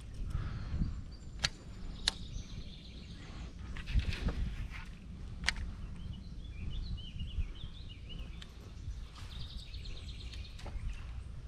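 Outdoor ambience with birds chirping in two short spells in the second half, over a steady low rumble, with a few sharp clicks early on.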